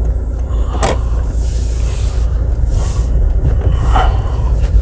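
Steady low rumble of a car driving slowly, heard from inside the cabin, with a couple of brief clicks about a second in and near the end.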